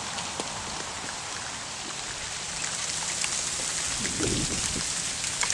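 Ice breaking off ice-coated trees and falling through the branches: a steady, rain-like patter of many small ticks, with a low thump about four seconds in.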